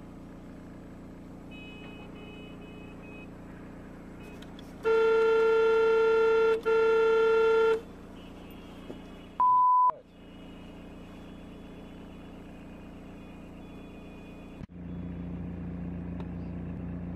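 Steady vehicle running and road noise, broken about five seconds in by two long blasts of a vehicle horn. Near ten seconds a short single-tone censor bleep sounds in a brief silence. The road noise is louder after an abrupt change near the end.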